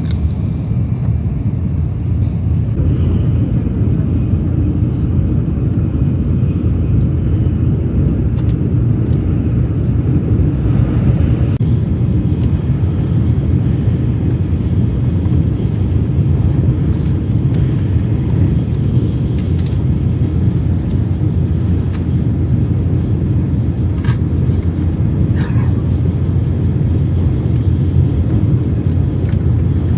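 Shinkansen bullet train running at speed, a steady low rumble heard from inside the passenger cabin, with a couple of faint clicks near the end.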